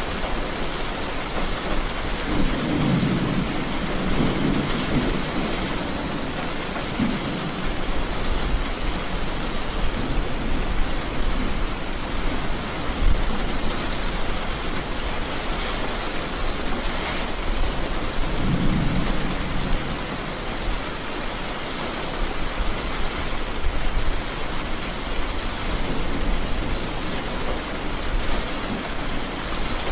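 Steady rain with low thunder rumbles rolling in about four times.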